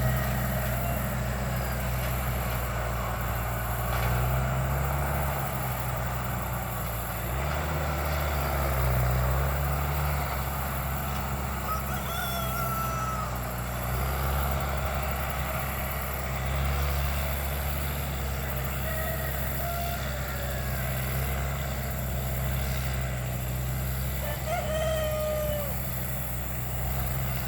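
Bulldozer's diesel engine working steadily, its note rising and falling with the load as it pushes through brush, while roosters crow a few times.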